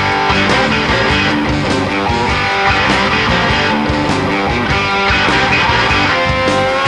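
Rock music with electric guitar and a steady beat, an instrumental break with no singing.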